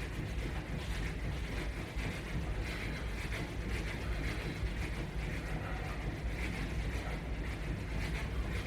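Jogging in place against a resistance band: faint soft rhythmic swishing over a steady low hum.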